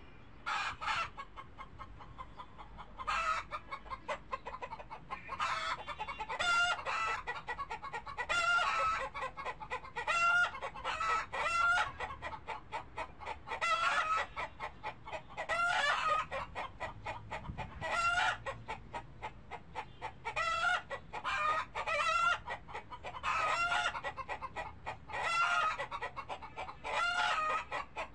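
Chickens clucking: short pitched calls repeated in quick clusters every second or two.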